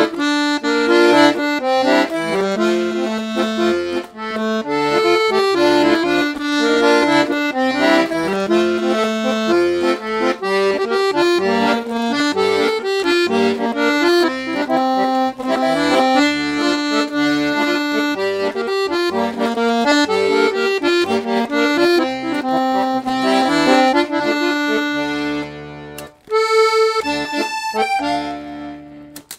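Parrot Peacock piano accordion with low and two middle reeds playing a tune: a moving treble melody over bass and chord accompaniment. Near the end it breaks off briefly, then sounds a held chord.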